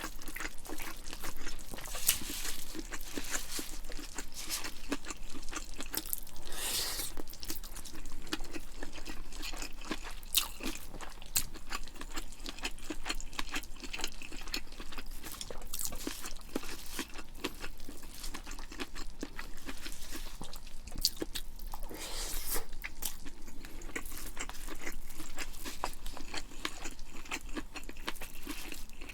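Close-miked chewing of food, with many small crisp clicks and wet crunching in an irregular patter and a few louder bites.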